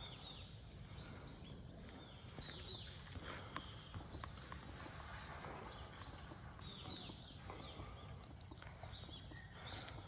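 Birds chirping: many short, high, falling chirps scattered throughout, over a low steady rumble.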